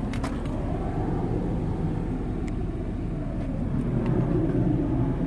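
2020 Nissan Maxima's 3.5-litre V6 idling steadily, with a few faint clicks.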